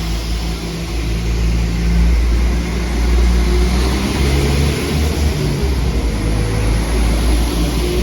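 Class 170 Turbostar diesel multiple unit's underfloor diesel engines running as the train moves along the platform, over a steady hiss of wheels on rail. The engine note shifts a few times, about halfway through.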